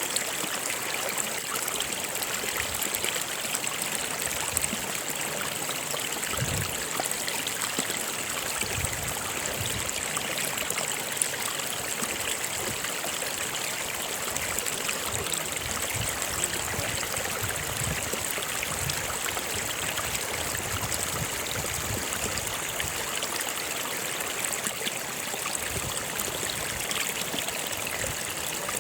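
Stream water flowing over rocks: a steady rushing with irregular low gurgles.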